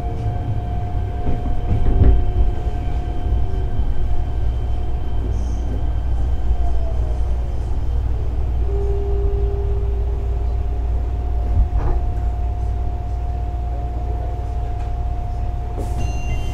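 Cab-and-car sound of a Fukuoka City Subway 1000N-series electric train, heard from inside: a steady low rumble with a constant hum, a short falling tone about six seconds in and a brief steady tone a little later.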